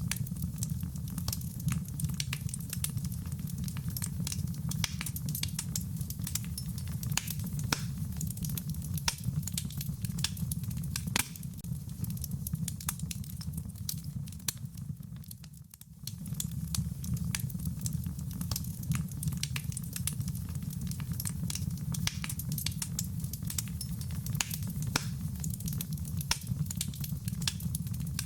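Wood fire crackling in a fireplace, with many sharp pops and snaps over a steady low rumble, and rain pattering along with it. The whole sound drops away for a moment about halfway through, then comes back.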